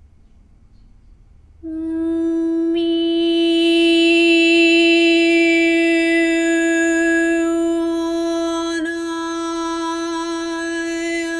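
A single long vocal tone, sung or hummed on one steady pitch, that starts suddenly about a second and a half in after near quiet. It is meditative toning with a rich, even overtone series.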